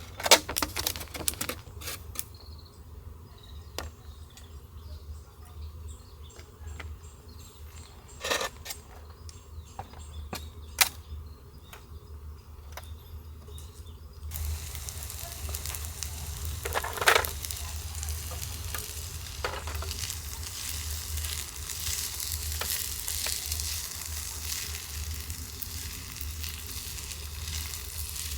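A few scattered clicks and knocks of handling, then about halfway through food starts frying in a hot pan with a steady sizzle that keeps going.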